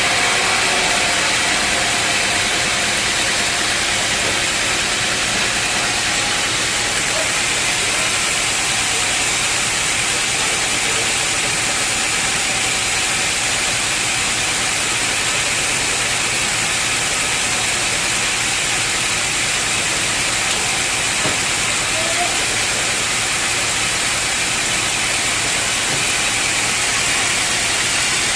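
Sawmill saw cutting through an old, dense-fibred teak log: a steady, even hiss.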